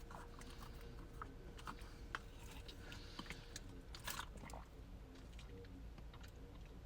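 A person drinking water: faint sips, swallows and small mouth clicks, scattered and brief, the clearest about four seconds in.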